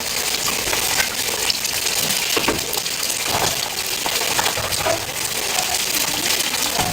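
Food sizzling on a hot pan, a steady hiss with many small clinks and knocks of metal utensils and containers.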